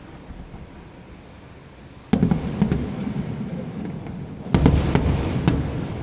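Electronic firecrackers going off in rapid crackling barrages. The first barrage starts suddenly about two seconds in, and a second, louder one breaks in at about four and a half seconds.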